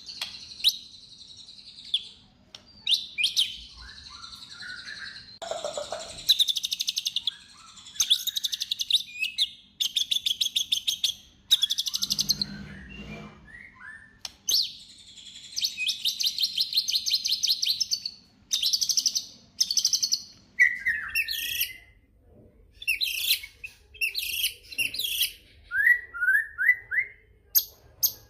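White-rumped shama (murai batu) singing continuously, alternating fast rattling trills with shorter varied notes and brief pauses.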